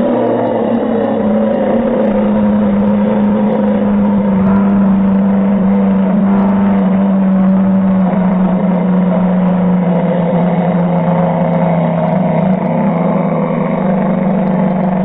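A person's loud, held nasal "eeeeh" drone, one steady pitch that sags slightly, kept up without a break: the mock "most annoying sound in the world".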